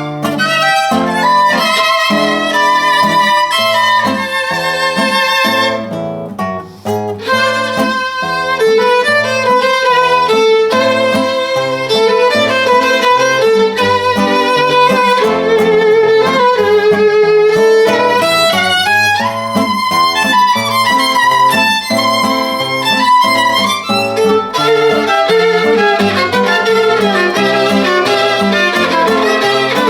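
Violin playing a melody with vibrato over a lower accompaniment.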